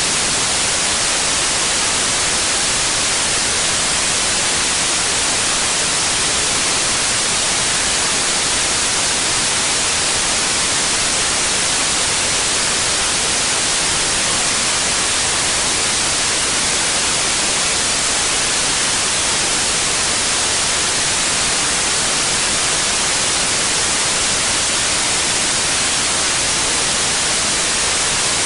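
Steady white noise: an even, unchanging hiss across the whole range, heavier in the highs.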